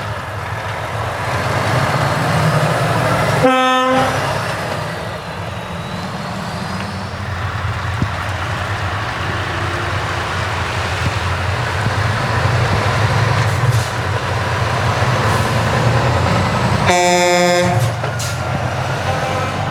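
Heavy truck diesel engines running with a steady low rumble, broken by two truck air-horn blasts: a short one about three and a half seconds in and a longer one, about a second long, near the end.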